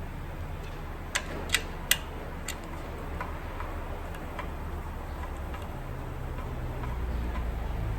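Sharp metallic clicks and clinks from hand tools working on a Chevrolet 5.3-litre V8 under reassembly: three loud clicks a little over a second in, then lighter regular ticking, over a steady low hum.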